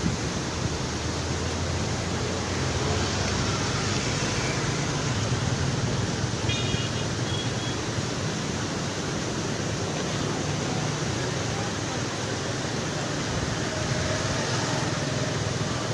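Steady rushing of a swollen river in heavy flood flow.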